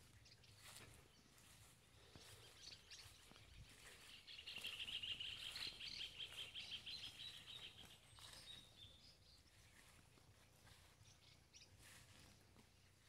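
Faint open-air ambience with a bird singing a fast trill of many rapid notes from about four to nine seconds in, among scattered short chirps.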